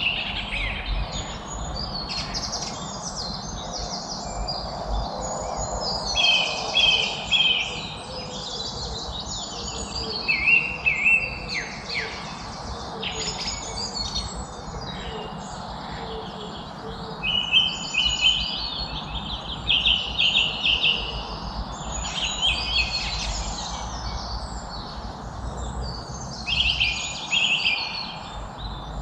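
Several songbirds singing and chirping, with overlapping phrases of quick repeated high notes and trills. A steady low rumble of background noise runs underneath.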